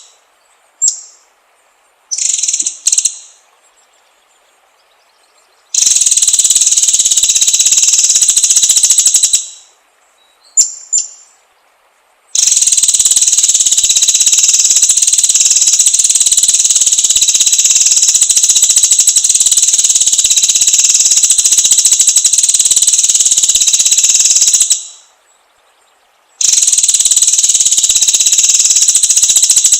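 White-rumped shama (murai batu) song used as a lure recording: long unbroken stretches of dense, high-pitched song, with a few short calls in the gaps between them.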